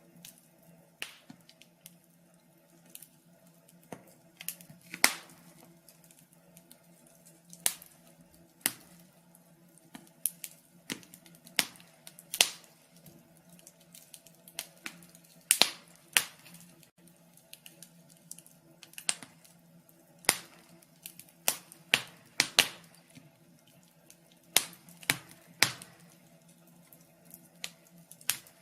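Wood fire crackling in a fireplace: irregular sharp pops and snaps, about one a second with occasional quick clusters, over a faint steady low hum.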